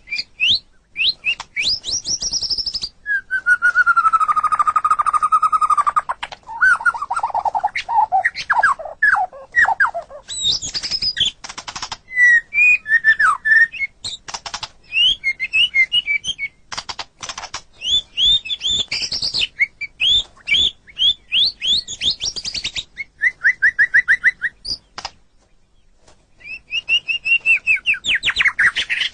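White-rumped shama (murai batu) singing a varied song of loud whistled phrases, rapid trills and chattering notes, including a long low whistle about three seconds in, with a brief pause near the end.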